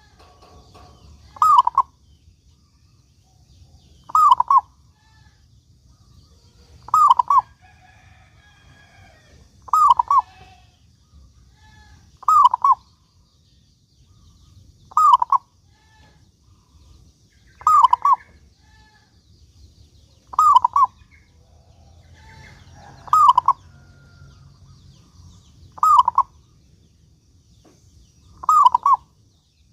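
Zebra dove (perkutut) cooing its song phrase over and over, a short burst of rapid notes repeated evenly about every two and a half seconds, eleven times.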